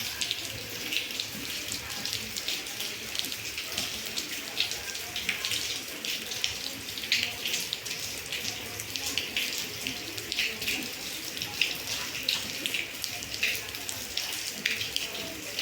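Steady rain falling, with many close drips and splashes of water.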